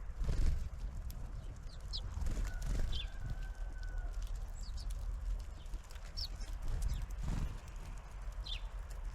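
Small birds at a garden feeder: short high chirps scattered through, with one longer steady whistle about three seconds in, among light knocks and taps, over a constant low rumble.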